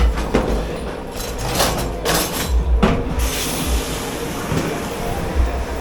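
Dishes and kitchenware clattering and knocking in a commercial dish pit over a steady machine hum. About three seconds in, a steady hiss sets in.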